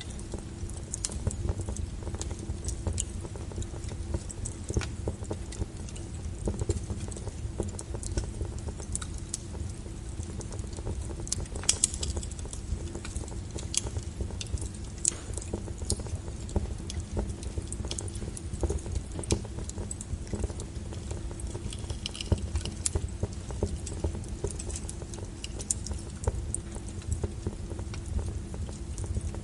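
Wood fire burning, with frequent irregular sharp crackles and pops over a low, steady rumble of flames.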